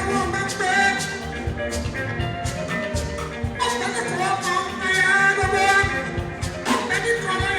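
Live Fuji band music: steady drum and percussion strokes under pitched melody lines, with some singing.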